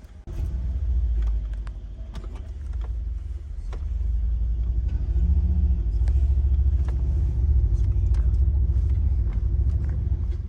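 Mercedes-AMG C63 (W205) 4.0-litre twin-turbo V8 running as the car pulls away at low speed in comfort mode: a deep exhaust rumble that comes in just after the start and grows louder about four seconds in.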